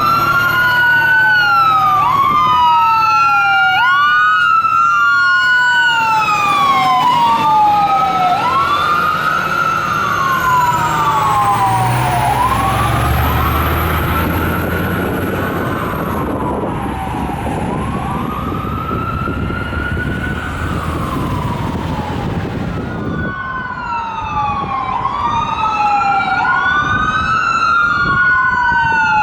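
Two fire engine sirens wailing out of step with each other, each rising quickly and then falling over about three seconds. About halfway through a heavy truck engine rumbles past and the sirens grow fainter, then come back loud near the end.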